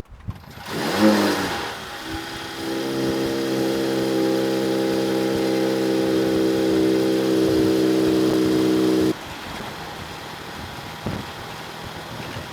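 Mercedes-AMG E53 Coupé's inline-six engine starting with a brief rise and fall in revs, then idling steadily. The engine sound cuts off suddenly about nine seconds in.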